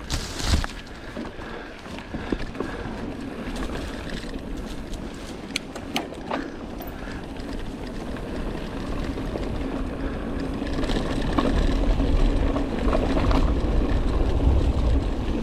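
Rock Machine Blizzard mountain bike ridden along a dirt forest trail: rolling tyre noise and wind rumble on the helmet camera's microphone, growing louder in the last few seconds, with a few sharp clicks and knocks from the bike over the ground.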